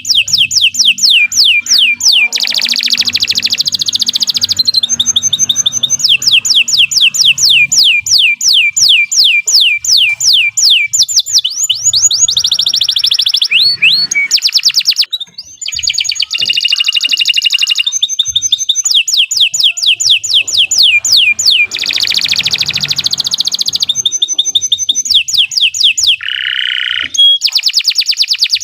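Domestic canary singing a long, high-pitched song of fast repeated rising notes and trills, with one brief break about halfway through.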